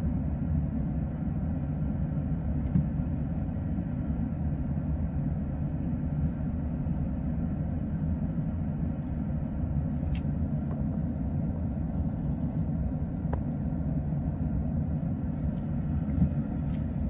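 Vehicle engine idling in a steady low rumble, heard from inside the cab, with a few small clicks.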